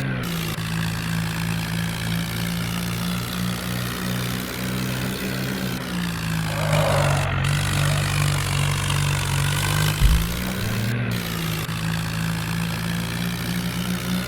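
Tractor engine running steadily, its pitch rising briefly a few times as it is revved.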